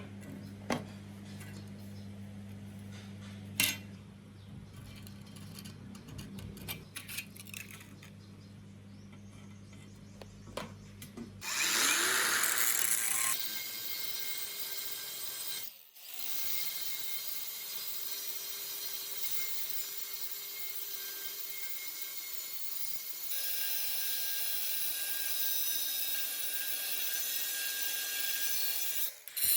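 A low steady hum with a few sharp clicks, then about twelve seconds in a handheld power tool starts and runs steadily, cutting out briefly partway through and changing tone later on.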